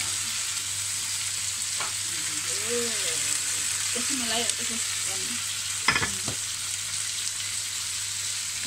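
Chicken sizzling in a double-sided non-stick fry pan, a steady hiss of frying fat. There is a brief knock about six seconds in.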